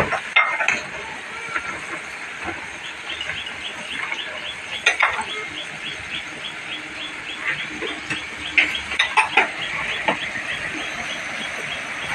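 Cashew nuts roasting over a fire, with irregular sharp crackles and pops over a steady hiss. A fast, regular high chirping, about three to four a second, runs behind it from a few seconds in.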